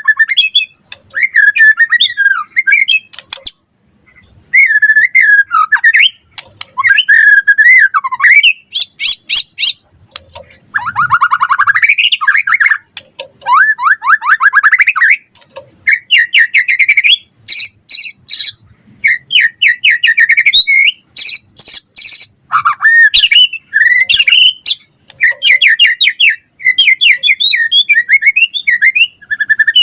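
White-rumped shama (murai batu) singing a fast, varied song of whistled glides, rapid trills and harsh chatter, in short phrases with brief pauses between them.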